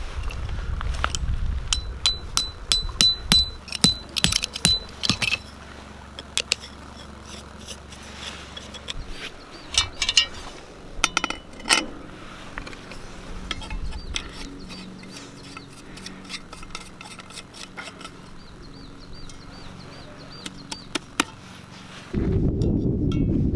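Metallic clinks and knocks of camping gear being handled, with a run of quick ringing metal taps a few seconds in. About a second and a half before the end, a loud low rushing noise starts, like wind on the microphone.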